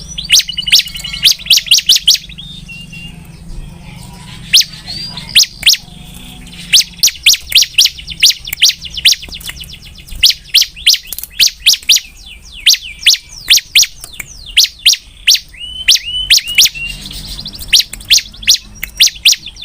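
Bar-winged prinia (ciblek) singing hard: long runs of fast, sharp, high chirps, with two brief lulls, about three and six seconds in.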